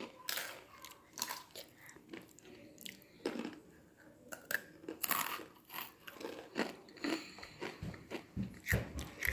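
A person chewing a Takis rolled corn tortilla chip, with irregular crisp crunches as it is bitten and broken down.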